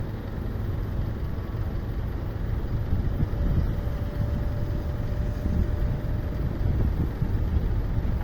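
Low, gusty rumble of strong typhoon wind buffeting the microphone, mixed with the jet engines of an ANA Boeing 777-200 landing; a faint steady engine tone rises above the rumble in the middle for a few seconds.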